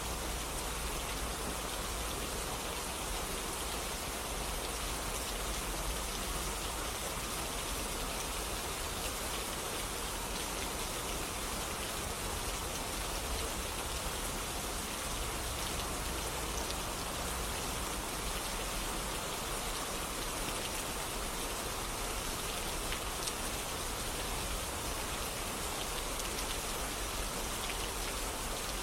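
Steady rain falling on surfaces: an even hiss of many fine droplet patters with a low rumble beneath.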